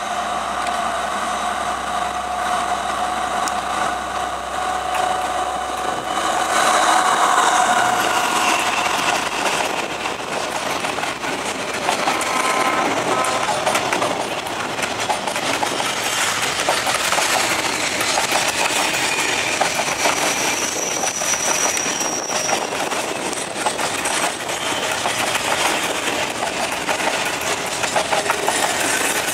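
Freight train hauled by the D11H diesel locomotive passing close by: the locomotive's engine runs with a steady tone for the first several seconds, loudest about seven seconds in as it goes past. Then the box wagons roll by with a continuous clickety-clack over the rail joints, and a brief high wheel squeal about twenty seconds in.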